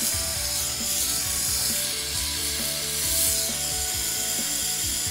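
Steady hiss of a jeweler's soldering torch flame, swelling a little about three seconds in, with faint background music of held notes underneath.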